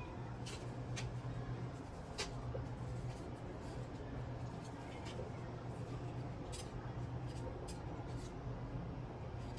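Scattered light clicks and taps, about a dozen, irregularly spaced over a steady low hum.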